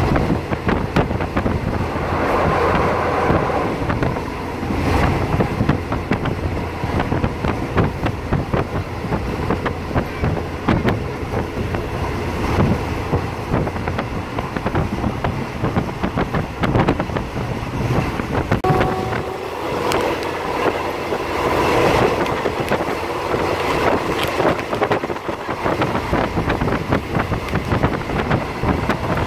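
Diesel railcar under way, heard from a passenger carriage: a steady rumble and clatter of wheels on the track, with wind buffeting the microphone.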